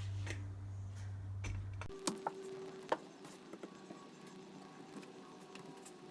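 Light metallic clicks and taps of nuts, bolts and a spanner being handled while a small engine is bolted down to its mounting bracket, the sharpest three within the second second. A low steady hum stops abruptly about two seconds in.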